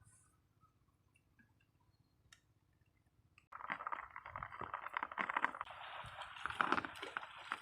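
Near silence with a few faint clicks, then, about three and a half seconds in, splashing and sloshing water starts suddenly and keeps going.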